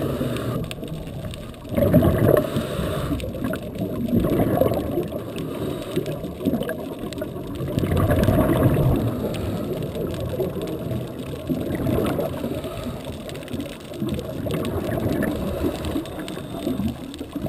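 Muffled underwater bubbling and gurgling from a scuba diver's exhaled air bubbles, swelling in surges every few seconds.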